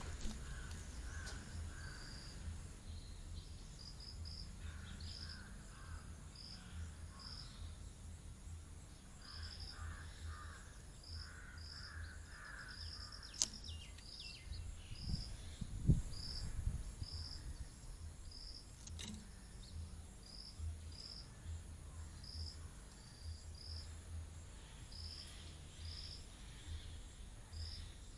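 Outdoor nature ambience: short high chirps repeating about once a second, with bursts of lower calls in the first half, over a low rumble. A sharp click comes about 13 seconds in, and a thump around 16 seconds.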